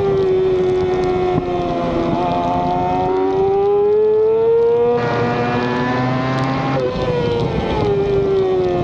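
Racing motorcycle engine at high revs under race conditions, the pitch climbing steadily for a few seconds as it accelerates, then jumping up near the end and falling away as the bike slows for a corner. Wind rushes over the bike throughout.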